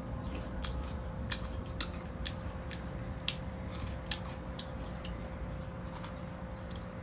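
Crunching of someone chewing crisp green mango: irregular sharp crunches, coming most often in the first four seconds, over a steady low hum.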